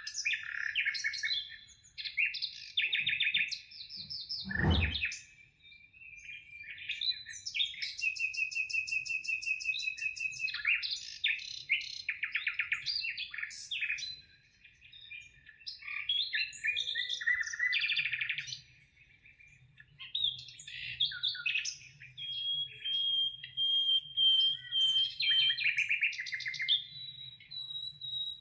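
Songbirds chirping and singing, several overlapping calls with rapid trills and held whistled notes. About four seconds in, a sudden sound sweeps steeply down in pitch.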